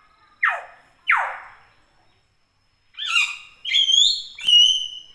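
Hill myna calling: two quick downward-sweeping calls, then a run of loud ringing whistles that climb and end on a held note, with a sharp click among them.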